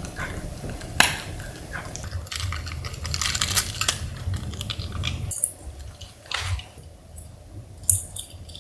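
Scattered light clicks and clinks of small hard objects being handled, with rustling, busiest from about two and a half to four seconds in, with one sharper knock about a second in.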